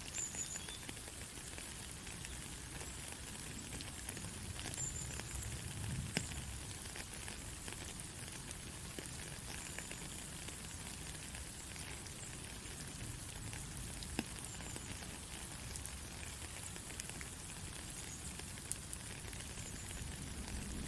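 Steady rain falling, an even patter with scattered sharper drips, over a low rumble that swells a little about six seconds in.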